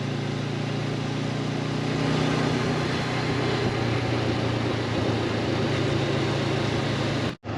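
Honda CB500X parallel-twin engine running at a steady cruise under wind and road noise. The sound cuts out briefly near the end.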